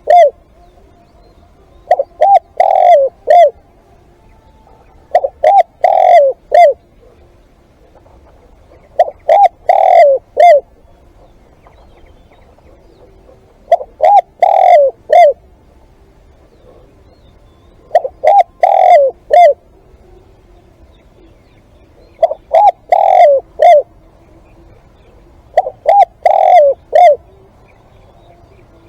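Spotted dove (nok khao yai) cooing as a caged live decoy. It repeats a phrase of three or four falling coo notes about every four seconds, seven times.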